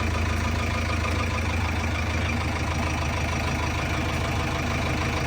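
Heavy diesel engine running steadily at low revs, an even hum with no change.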